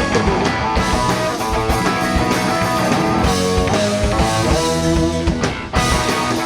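Live rock band with electric guitar and drum kit playing an instrumental passage of a song, with a brief drop in sound about five and a half seconds in before the band comes straight back in.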